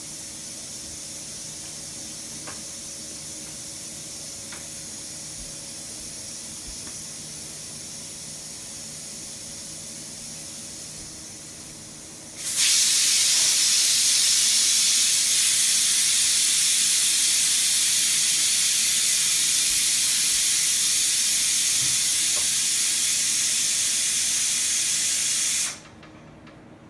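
A steady hiss that turns much louder about halfway through, holds steady, and cuts off suddenly about a second before the end.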